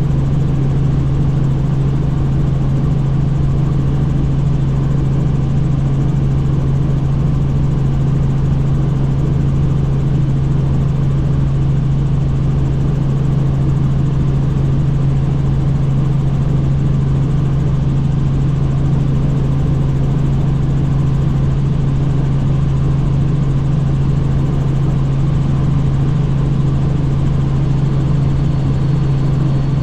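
Helicopter in flight: a loud, steady drone of rotors and engine with a strong constant low hum.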